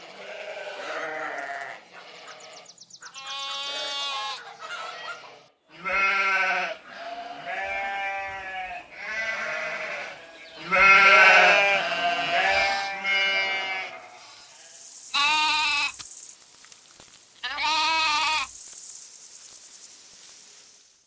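Sheep bleating: a string of wavering bleats one after another, ending with two loud, longer bleats.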